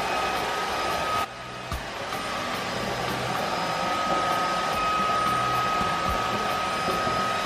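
Small electric air appliance running steadily: a rush of air with a constant high motor whine, dipping suddenly a little over a second in and then building back up.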